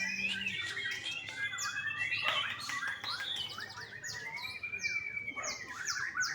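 Young white-rumped shama singing a continuous, varied song of sliding whistles and quick chirps.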